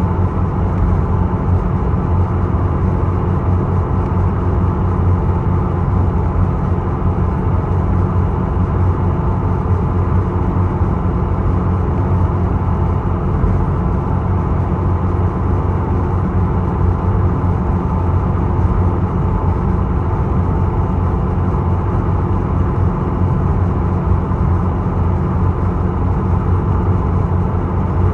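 Engine of the passenger boat Isokaze running steadily, a low drone with a constant rushing noise underneath, as heard on board while it crosses rough sea.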